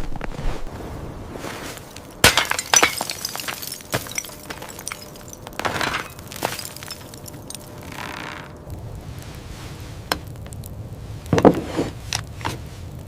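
A series of sharp, irregular cracks and clinks, several clustered together about two seconds in and again near the end, over a steady low rumble.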